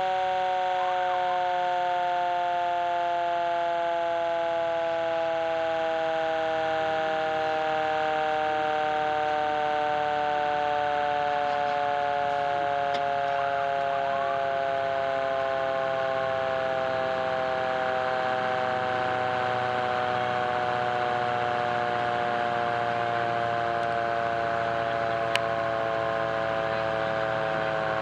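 Fire truck siren sounding one continuous wail whose pitch slides slowly lower, with a single sharp click about 25 seconds in.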